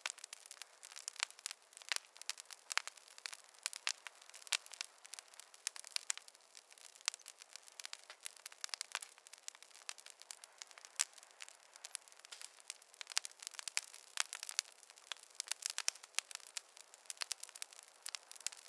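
Campfire crackling: an irregular, continuous stream of small sharp pops and snaps, without any low rumble.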